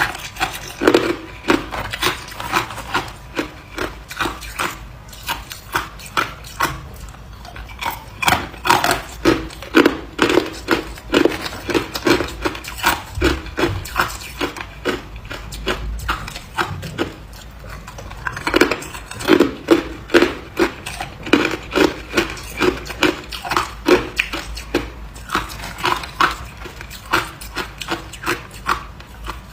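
Ice being bitten and chewed close to the microphone: rapid, crisp crunching in irregular runs, easing off twice for a few seconds.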